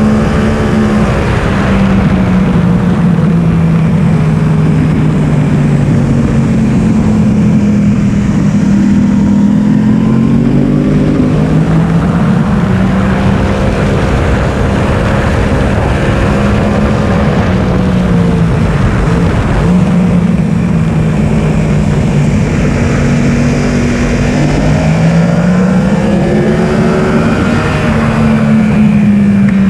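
Yamaha R1 inline-four engine at full trackday pace, heard onboard: the engine note repeatedly rises and falls in pitch as the bike accelerates and slows for corners, over a steady rush of wind.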